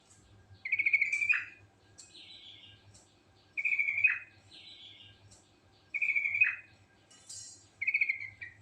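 Yellow-vented bulbul (cucak trucuk) singing. Four loud bubbling, warbled phrases come about every two and a half seconds, each ending in a quick downward slur, with softer falling notes in between.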